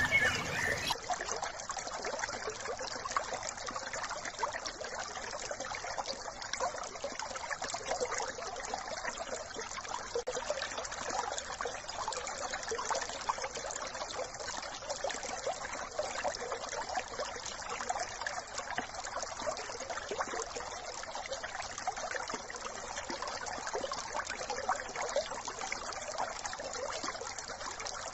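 A small brook babbling and trickling steadily, a continuous rush of water full of small splashes.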